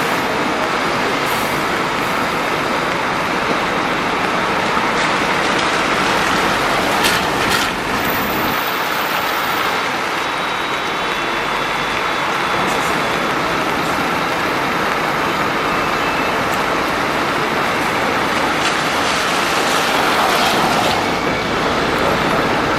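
Steady road-traffic noise of passing heavy vehicles such as buses and trucks, with two brief sharp sounds about seven seconds in.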